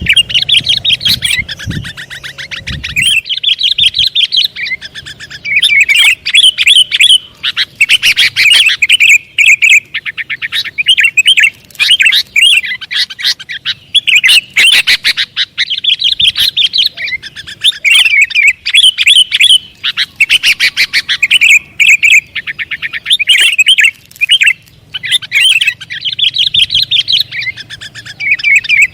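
Sooty-headed bulbul (kutilang) singing loudly and without pause: runs of quick, high chirps about a second long, separated by short gaps.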